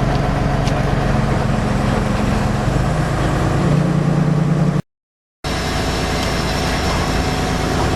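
Heavy diesel engine running steadily, revving up about three seconds in. The sound cuts out completely for about half a second shortly after, then the engine carries on.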